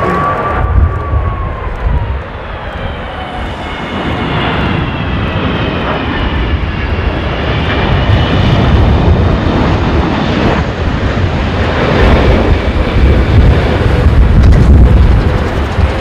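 Jet airliner on its landing approach. The engines give a high whine of several tones that slowly shift in pitch, over a heavy, uneven low rumble.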